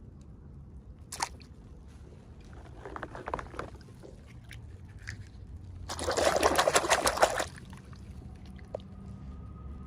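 Packaging being handled and crinkled during an unboxing: a few light clicks, a short patch of crackling, then a louder burst of dense crinkling lasting about a second and a half, just past the middle.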